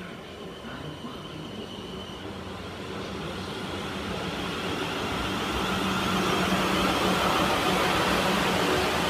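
South West Trains electric multiple-unit train running into the station, its sound growing steadily louder as it draws alongside, with a steady low hum.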